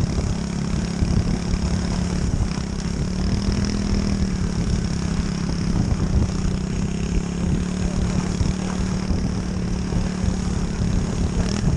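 Pit bike engine running at a steady speed, its note holding nearly level with small dips, over a rough low rumble.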